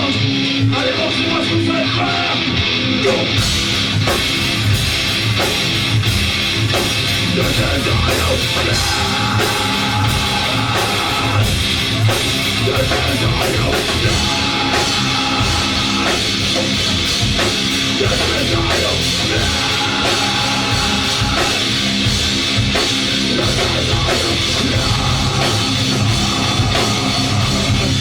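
Live rock band playing loudly: electric guitar strumming, joined about three seconds in by the full drum kit and bass.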